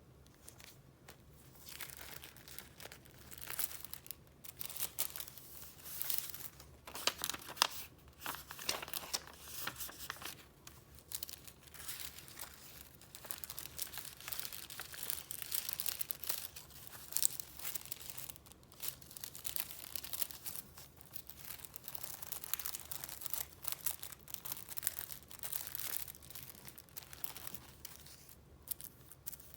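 Paper being handled: sheets and paper goods rustling and crinkling in irregular bursts as they are leafed through. It starts about a second in and thins out near the end.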